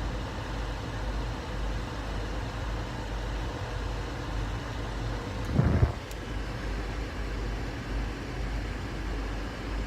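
Car engine idling, a steady low hum heard from inside the cabin while stopped in a queue. About halfway through there is a brief louder thump.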